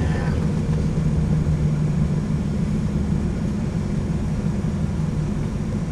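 Steady drone of a vehicle's engine and road noise, heard from inside the cab while driving.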